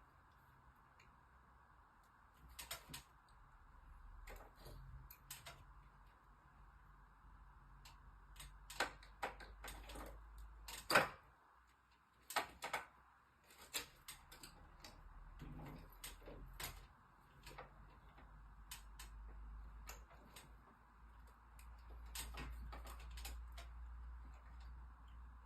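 Irregular light clicks and knocks of hands, tools and plastic parts being worked on an air conditioner's indoor unit, over a faint steady hum. The loudest knock comes about eleven seconds in.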